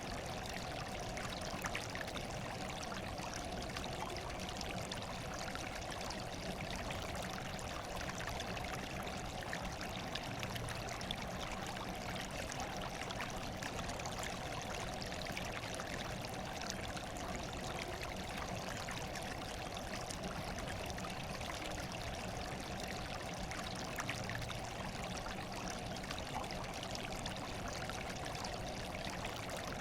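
Steady trickling of running water, even and unbroken, with faint small drips now and then.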